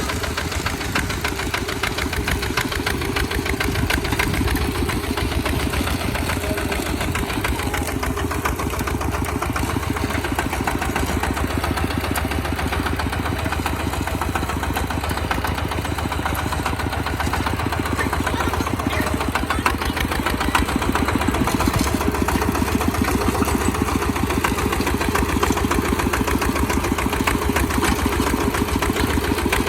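Tractor engine running steadily with a fast, even chugging, a little louder in the last third.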